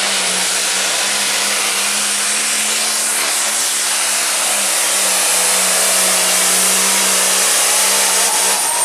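Limited pro stock pulling tractor's turbocharged diesel engine running flat out during a pull: a loud, steady sound with a held tone, growing slightly louder about halfway through.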